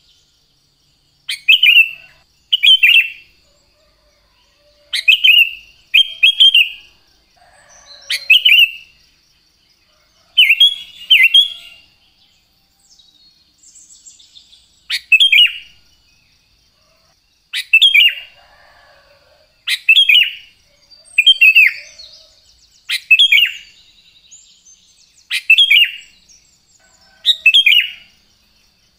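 Sooty-headed bulbul (kutilang) singing: loud, short bubbling phrases repeated every second or two, often in pairs, with a brief pause near the middle.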